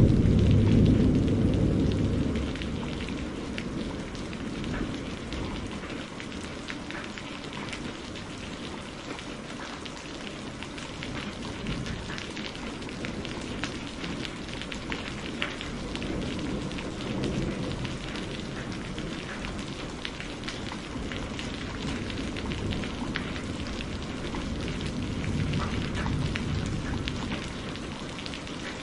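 Steady rain with a roll of thunder at the start that fades away over a few seconds, and softer distant rumbles later on. Small crackling pops, as from a wood fire, come through the rain.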